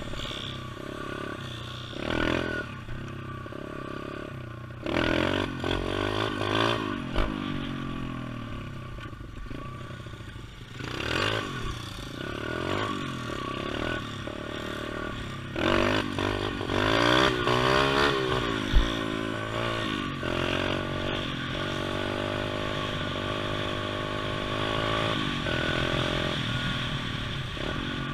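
Small pit bike engine being ridden, revving up and easing off several times, then holding a steadier speed in the last third. A couple of short thumps stand out, the sharpest about two-thirds of the way through.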